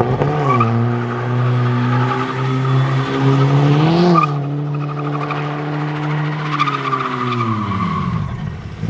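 BMW engine held at steady revs while the car spins donuts, its rear tyres spinning and squealing on the asphalt. The revs flare briefly about four seconds in and fall away near the end.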